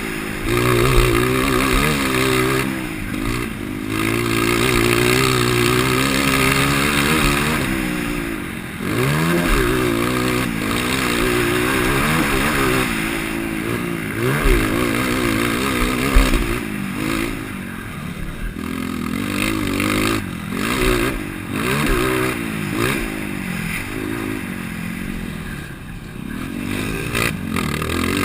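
A 230 cc motocross bike's engine, running on its stock motor with an aftermarket header pipe and exhaust tip, revving up and dropping back again and again as it is ridden around the track. Rushing hiss and scattered clattering knocks run along with it.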